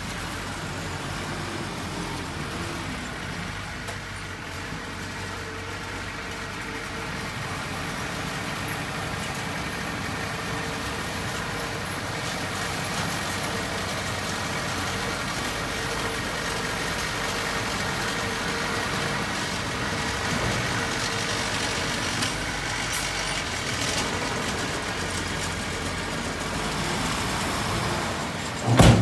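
Engine of heavy earthmoving machinery running steadily, growing slightly louder over time, with one sharp loud knock near the end.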